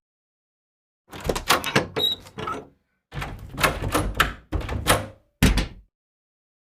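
Sound effect of a rapid series of knocks and thuds in four quick clusters, the last a single heavy thud.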